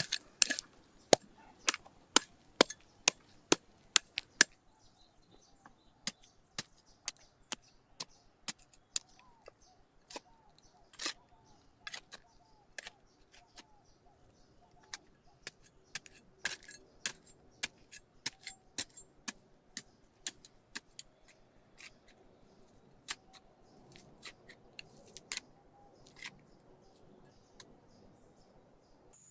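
Sharp knocks of hand-tool work, evenly spaced at about two a second for the first four seconds, then irregular strikes and clicks for the rest, with faint bird chirps in the background.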